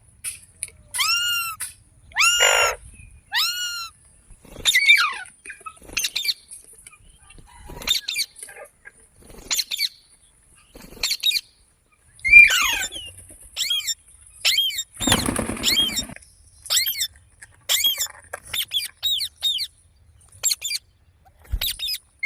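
Pet Indian green parrot calling: short calls that each rise and fall in pitch, repeated one after another with brief gaps and coming faster towards the end. About fifteen seconds in there is about a second of rustling noise.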